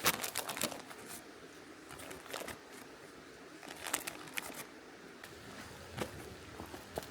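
Irregular clusters of short clicks and rustling, with the loudest burst right at the start and smaller groups every second or two.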